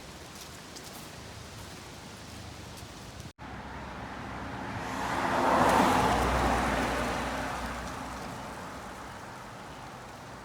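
A motor vehicle passing by: it grows louder to a peak about halfway through, with a low rumble, then fades away over a steady hiss.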